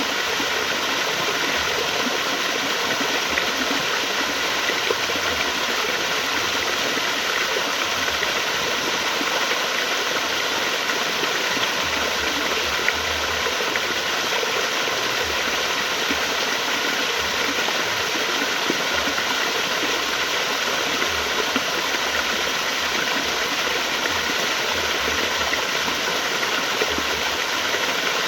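Flowing water running steadily, an even rush with no breaks.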